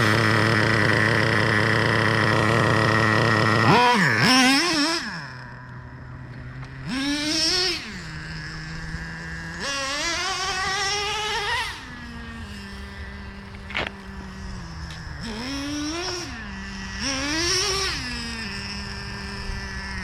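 Traxxas Revo 3.3's TRX 3.3 two-stroke nitro engine held at steady high revs, then dropping to idle about four seconds in. It is blipped up and back to idle several times, testing a freshly adjusted low-speed needle that sets takeoff and idle.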